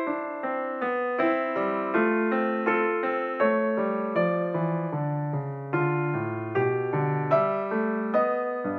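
Background piano music: a melody of struck notes, each ringing and fading, at a steady pace of a few notes a second.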